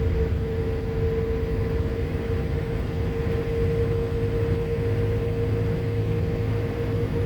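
Steady airliner cabin noise on the ground before takeoff: a constant low rumble with a steady mid-pitched hum from the engines and air systems over a light hiss.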